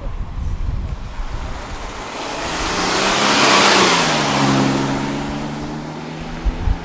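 A car driving past, its engine and tyre noise swelling to a peak about halfway through and then fading, its engine note dropping as it goes by. A couple of brief low thumps come near the end.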